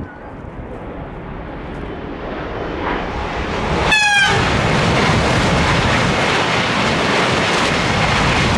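Eurostar e320 high-speed train passing at speed. The rush of wheels and air builds steadily as it approaches and stays loud as it goes by. About four seconds in, a short horn blast sounds, its pitch dropping slightly.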